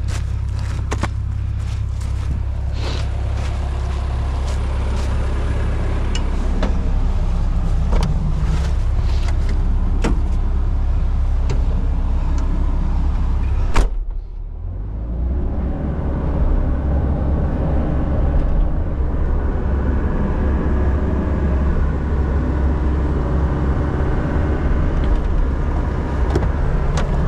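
John Deere 60G compact excavator's diesel engine running steadily, with scattered clicks and cracks over it. A sharp crack comes about 14 seconds in, the sound dips briefly, then the engine goes on running.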